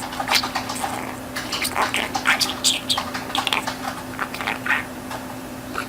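Budgerigar chattering in quick, irregular clicks and short chirps, with a steady low hum underneath.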